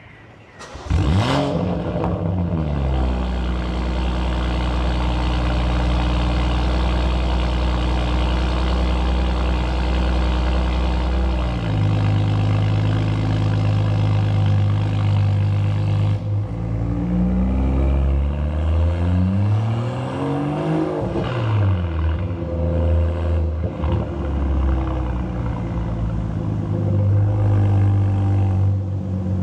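BMW X3 M40i's turbocharged inline-six, muffler deleted, starting up about a second in with a quick flare in revs that settles to a steady idle. Later come a few throttle blips, the revs rising and falling, through the open exhaust.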